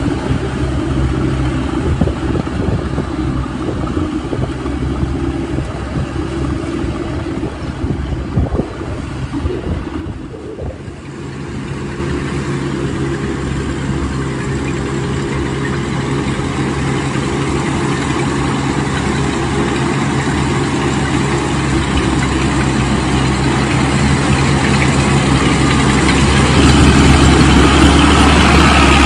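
Mid-size Thale Thong Storm rice combine harvester running, its engine steady, easing off briefly about ten seconds in, then growing gradually louder toward the end.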